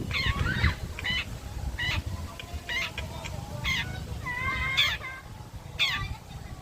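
Long-tailed shrike (cendet blangkon) calling: short sweeping, jagged notes about once a second, with a longer warbling phrase just past the middle.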